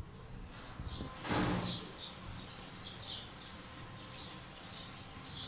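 Small birds chirping in short, repeated calls, with one brief louder noise about a second and a half in.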